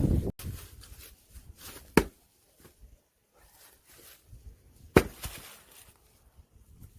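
Axe blows splitting firewood: two sharp, loud strikes into a log about three seconds apart, with quieter knocks of wood in between.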